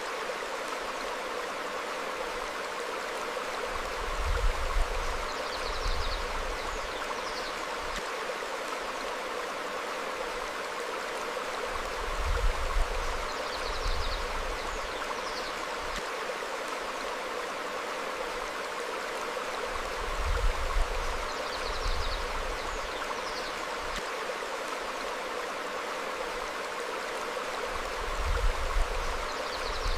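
Stream flowing steadily over rocks, with a low rumbling swell about every eight seconds and faint brief bird chirps that come back with the same spacing.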